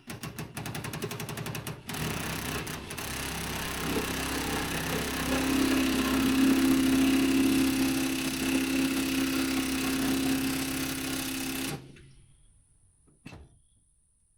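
Impact wrench hammering as it runs a bolt down, with rapid, even blows at the start, getting louder and steadier about four seconds in, then stopping abruptly near the end.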